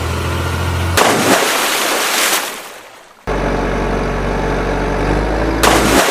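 Truck engine running with a steady low hum. It is broken about a second in by a loud rushing noise that fades away, then cuts back in abruptly, and a second rushing noise comes near the end.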